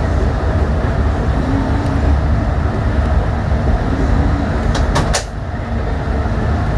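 Yurikamome rubber-tyred automated train running along its guideway with a steady low rumble. There are two sharp clicks about five seconds in, and the level dips briefly right after.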